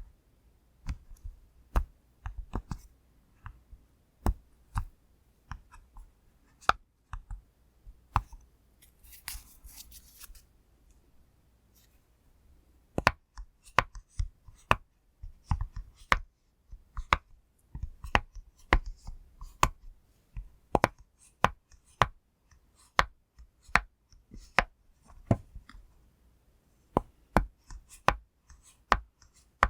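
Bubbles of a silicone pop-it fidget toy being pressed through one after another: sharp, separate pops at an uneven pace. There is a short rustle about nine seconds in, a pause of a few seconds, and then a quicker run of pops.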